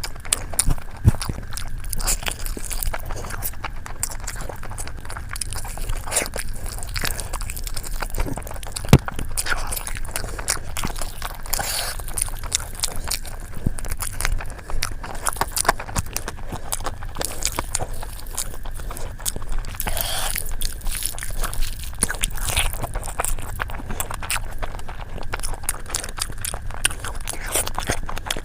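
Close-miked eating: steady biting and chewing with many small crunchy clicks and crackles.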